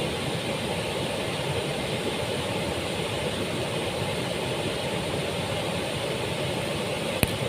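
Falling water of the We'e Kacura waterfall rushing steadily, with a single sharp click about seven seconds in.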